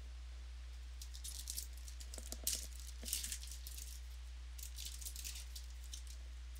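Football trading cards being handled and slid over one another: a run of short rustles and clicks. Over this lies a steady low hum.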